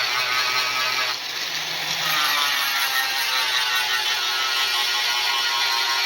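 Electric grinder working steel: a steady hissing run with a faint whine, dipping briefly about a second in.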